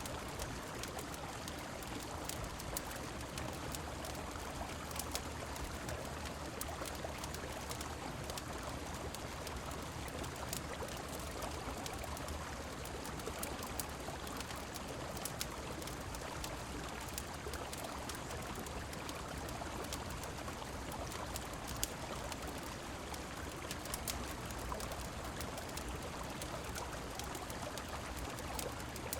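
Steady rushing of a river mixed with falling rain, with scattered sharp crackles and pops from a fireplace.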